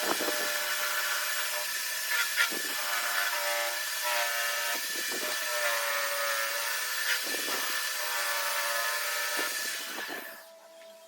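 A power tool running steadily against metal with a hiss and wavering whine, stopping about ten seconds in.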